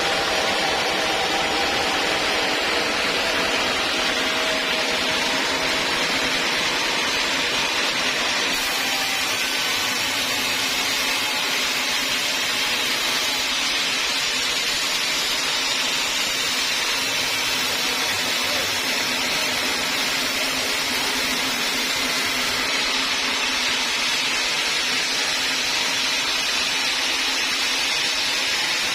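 Sawmill machinery running steadily, a continuous mechanical hiss and whine with no breaks, as while sawing teak logs.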